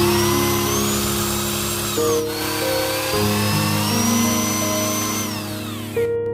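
Small electric power tool running in two stretches, its whine rising as it speeds up and falling away as it stops, with a short break about two seconds in; background music plays underneath.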